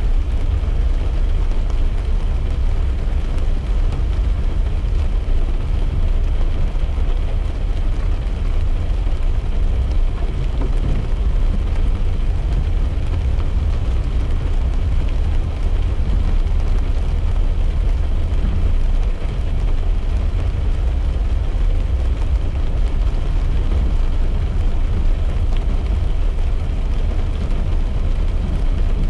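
Steady rumble of a car driving, heard from inside the cabin, with rain hissing on the car. The low road and engine rumble is the loudest part and holds even throughout.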